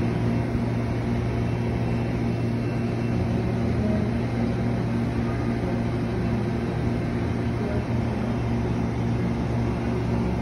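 Steady low hum, with a few steady tones above it, from an Amtrak passenger train standing at the platform.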